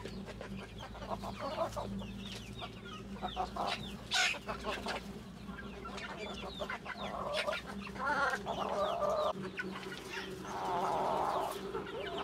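Chickens clucking, with many short, high, falling chirps throughout. Louder calls come about 8 seconds in and again near the end.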